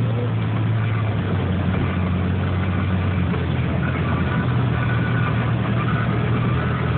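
Car engine running with a steady low hum, under road and cabin noise heard from inside the car while it drives.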